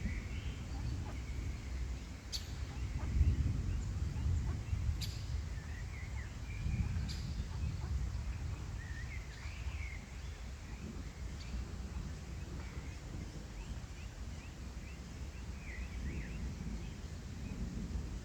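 Outdoor pond ambience: scattered short bird calls over a steady low rumble, with a few sharp clicks about two, five and seven seconds in.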